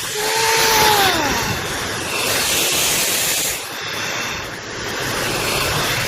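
A car-wash vacuum hose running: a loud, steady rush of suction that swells and dips as the nozzle moves. A short falling whistle comes about half a second in.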